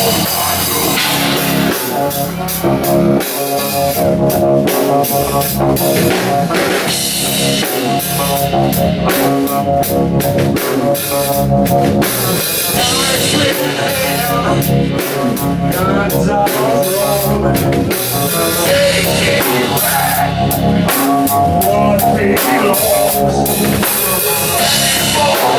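Live rock band playing an instrumental passage between vocal lines: guitar over a full drum kit with bass drum, loud and steady throughout.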